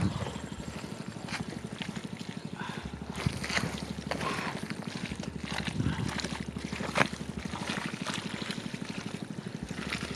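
A small engine running steadily with a fast even pulse, with a few sharp splashes or knocks of water and mud over it.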